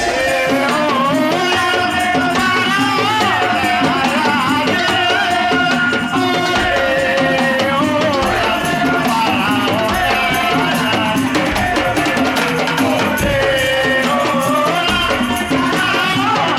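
Madurese daul (tong-tong) percussion band playing: a bending, wavering melody line over rattles and drums.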